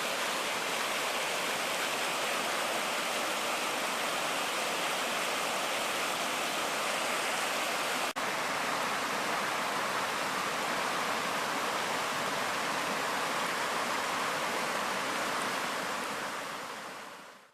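Water pouring over a small river dam, the river running high after days of rain: a steady rush of falling water. It breaks off for an instant about halfway and fades out at the end.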